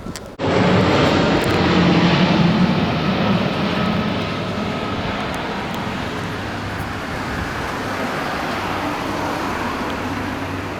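Loud roar of a low-flying military aircraft passing overhead. It cuts in abruptly about half a second in, is loudest over the next few seconds, then slowly fades while staying loud.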